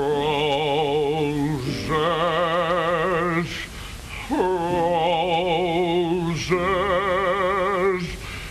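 A voice singing the word 'Roses' in long, drawn-out notes with a strong wavering vibrato: two phrases of two held notes each, with a short break in the middle.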